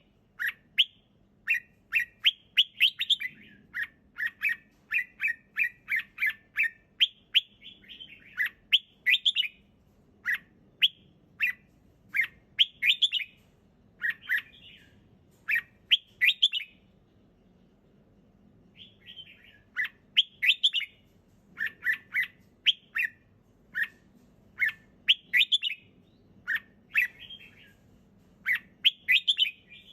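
Red-whiskered bulbul singing: short, bright chirping phrases repeated about once a second, with a pause of a couple of seconds a little past halfway.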